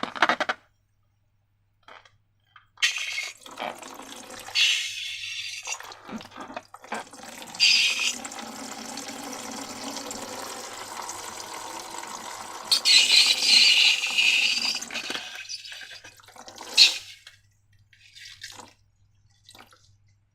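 Liquid being poured into a container for slime-making, coming in uneven spells and then a longer steady pour, louder for a moment about eight seconds in and again around thirteen seconds, with a short sharp sound near the end.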